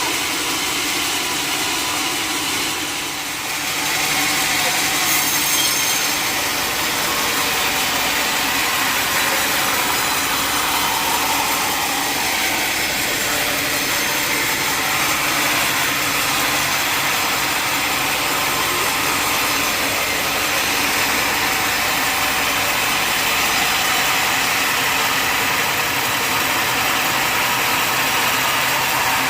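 Sawmill saw cutting lengthwise through a large mahogany log: a steady, continuous sawing noise that dips briefly and then comes in louder about four seconds in, holding steady from then on.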